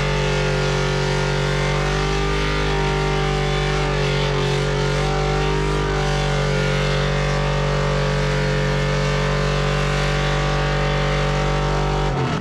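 A truck engine held at steady high revs, its pitch barely changing, over a loud noisy hiss, then cutting off abruptly near the end.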